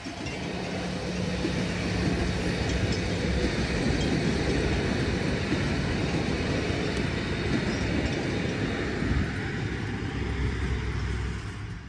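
Diesel train running past, a steady low engine tone over a wide rumble of wheels on rails; the engine tone drops lower near the end.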